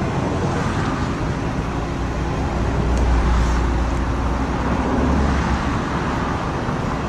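Road traffic noise from vehicles going past on the roadway, with a deep rumble that swells about halfway through.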